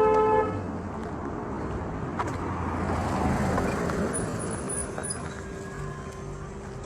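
A vehicle horn toots briefly at the start, then road traffic noise, with a vehicle passing that is loudest about three seconds in.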